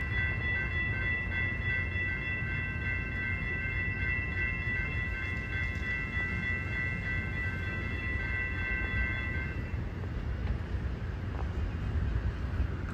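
A train running by with a steady low rumble, over which several high steady tones, one of them pulsing, ring together and stop about nine and a half seconds in.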